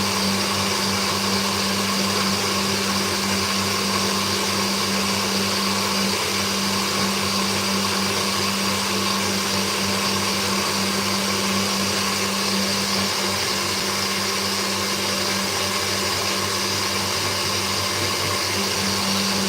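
Electric kitchen blender running steadily at one speed, a constant motor hum with a whirring, grinding wash over it.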